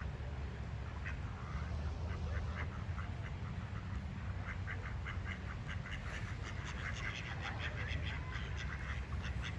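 A group of ducks quacking in quick runs of short calls, sparse at first and getting much busier about halfway through, over a steady low rumble.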